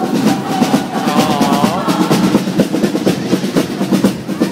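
Marching drum line playing: snare drums struck in rapid, dense strokes over bass drum beats.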